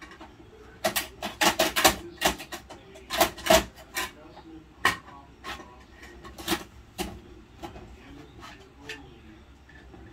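Sharp plastic clicks and knocks, a quick run of them in the first few seconds, then sparser: a Bruder toy garbage truck and its plastic bins being handled.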